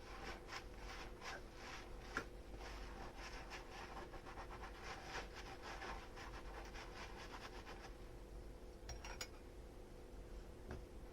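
Dishes being scrubbed by hand with a sponge: quick repeated rubbing strokes that ease off after about seven seconds, with a light knock near the end.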